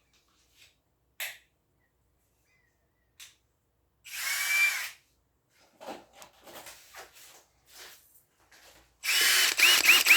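Cordless drill-driver run briefly once about four seconds in, then near the end started in several quick trigger pulses, its motor whining, with small clicks and handling knocks between.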